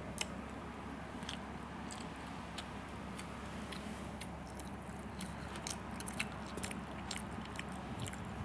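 Close-up chewing and biting of a rice ball, with scattered small wet mouth clicks over a steady low hum.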